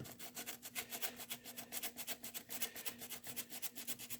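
Emery cloth scrubbed rapidly back and forth against a metal part of an oxalic acid vaporizer to clean its electrical contact, a quick even rasping of several strokes a second.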